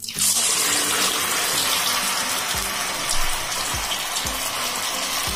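Sago vada batter sizzling in hot oil in a kadai, starting suddenly as it drops in and going on as a loud, steady hiss.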